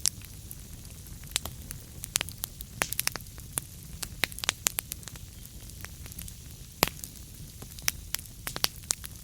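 Burning wood crackling: irregular sharp pops and snaps, several a second in busy stretches, over a steady low rumble of the fire.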